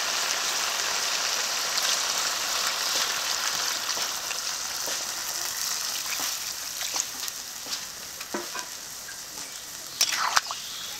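Chicken and potatoes sizzling in spiced oil in a kadai at the end of the frying stage, with a spoon stirring. The sizzle slowly dies down as water goes in for the gravy, and a few spoon knocks and scrapes come near the end.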